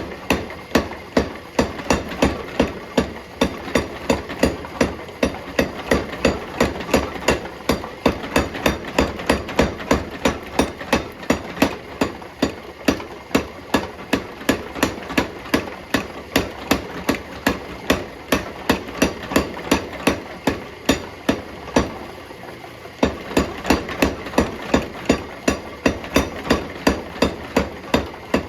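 Steady hammer blows forging a hot alloy-steel bar on the anvil, about three a second, pausing for about a second a little after three quarters of the way through. A steady hum runs underneath.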